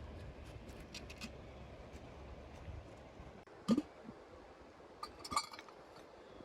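Cookware and utensils clinking and knocking during outdoor cooking: a few light clicks, one louder knock about halfway through, and a short run of ringing clinks near the end.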